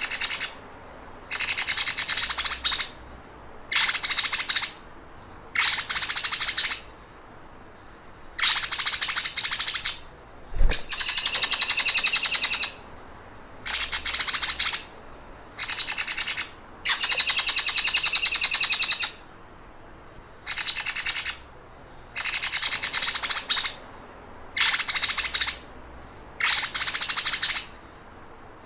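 Songbird giving the rapid, mechanical 'sewing machine' trill used as training material for cucak ijo and other songbirds: about a dozen high, buzzing bursts of one to two seconds each, with short pauses between them. A single low knock about ten seconds in.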